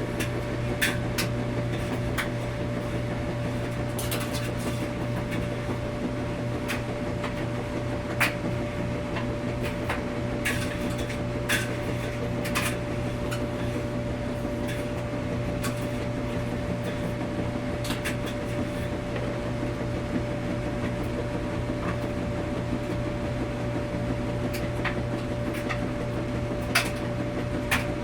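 Laundromat washing machine running with a steady low hum, with light clicks and knocks at irregular moments.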